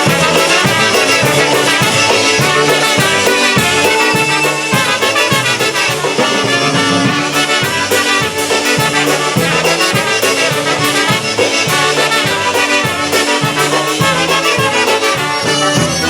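Live polka band playing an instrumental passage of a polka, with a steady beat in the bass.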